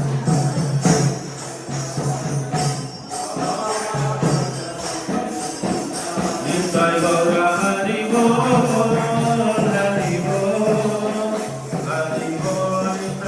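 Devotional chanting music: a steady low drone with jingling percussion, joined by a sung voice from about six seconds in.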